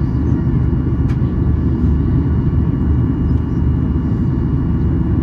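Steady low rumble of a Boeing 737-800's engines and airflow, heard inside the passenger cabin during the descent on approach, with faint steady tones above it. A faint tick comes about a second in.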